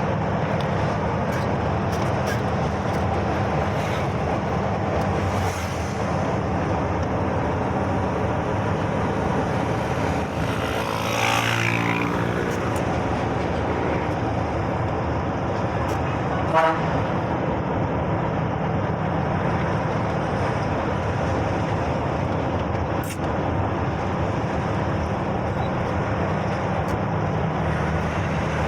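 Truck travelling on the road, its engine and tyres running steadily, with a vehicle horn tooting twice around the middle.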